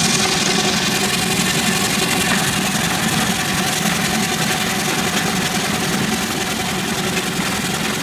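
Miniature Ruston Proctor steam traction engine running steadily along the road, an even mechanical running noise.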